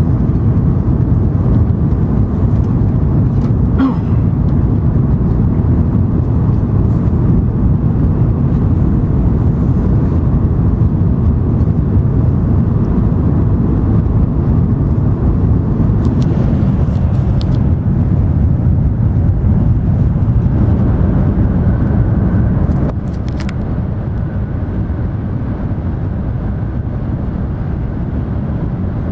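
Running noise inside the passenger cabin of an N700 series Shinkansen travelling at high speed: a steady, deep rumble that drops a little in level about 23 seconds in, with a few faint clicks.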